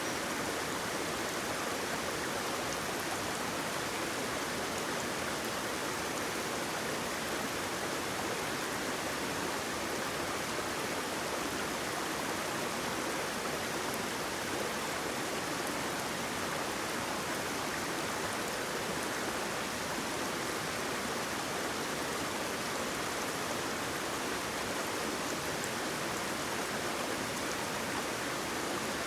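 Waterfall or stream of flowing water, a steady, even rush with no let-up.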